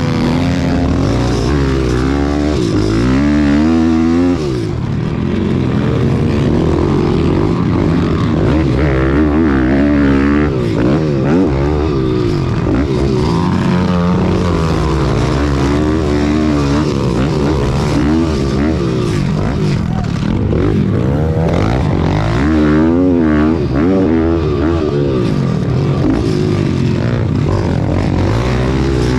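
Pit bike's small single-cylinder engine revving hard, its pitch climbing and dropping over and over as the throttle is worked.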